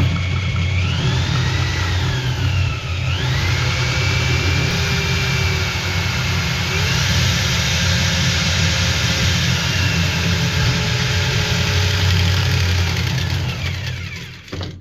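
A steady engine-driven machine running, with a high whine that rises and falls in pitch several times as a pipe cutter sands back the relined pipe at a junction. It fades out just before the end.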